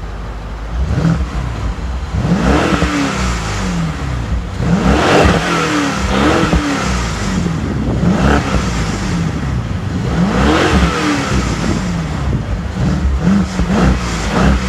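2013 BMW 550i's 4.4-litre V8 revved repeatedly through a Dinan aftermarket exhaust, each rev rising and falling back toward idle.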